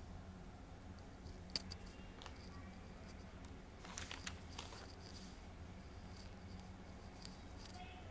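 Faint scrapes and clicks of a spoon against a cooking pan as chopped tomatoes are stirred into the onion and spice masala, with one sharp tap about one and a half seconds in, and a steady low hum underneath.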